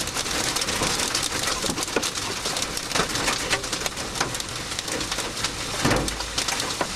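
Large hail pounding on a car's roof and body, heard from inside the car as a dense, unbroken barrage of sharp hits, with a heavier thud about six seconds in.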